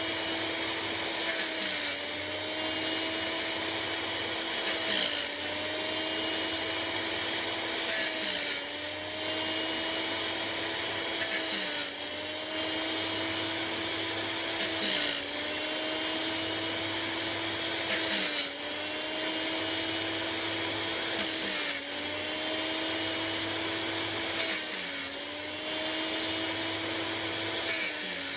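Homemade band sawmill blade sharpener: its motor hums steadily, and about every three seconds the grinding wheel meets a tooth with a short, high grinding rasp while the hum dips briefly in pitch under the load. This happens nine times, one tooth after another.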